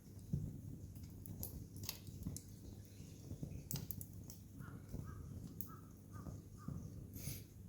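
Wood campfire crackling, with scattered sharp pops throughout. Past the middle, a bird calls about five times in quick succession.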